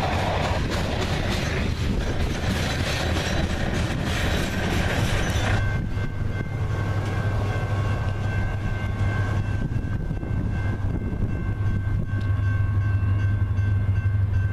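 A train running past on the line, with a loud rushing noise of cars and wheels. About halfway through the rushing falls away, leaving a steady low rumble with a few steady high tones over it.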